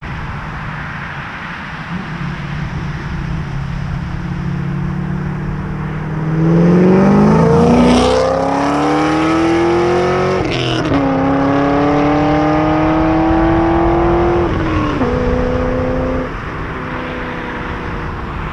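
Pontiac GTO's LS2 V8 with long-tube headers and a Corsa cat-back exhaust, running at low revs and then accelerating hard. The engine note climbs steadily, drops suddenly at a gear change, and climbs again. It drops at a second shift and settles at a lower, steady note near the end.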